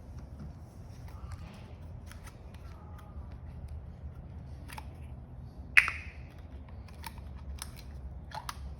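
Scattered small clicks and taps of objects being handled, with one sharp clack about six seconds in, over a low steady hum.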